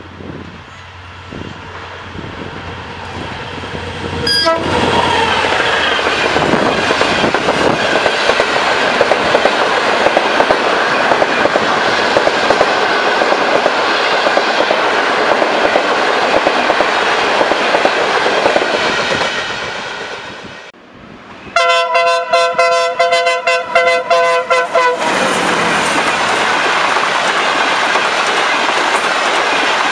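A long-distance passenger train approaches and passes at speed: a loud, steady rush of wheels on rails with clickety-clack, building over the first few seconds. Later a train horn sounds for about three seconds, a chord of several tones, and then the coaches roll past.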